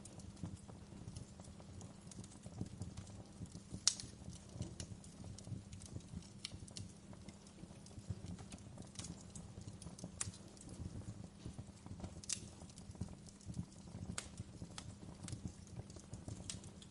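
Campfire crackling: irregular sharp pops and snaps over a steady low rumble, with a louder pop about four seconds in and another about twelve seconds in.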